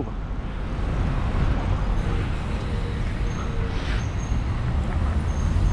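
Steady low rushing noise of wind on the microphone and road and traffic noise while riding a bicycle through city streets.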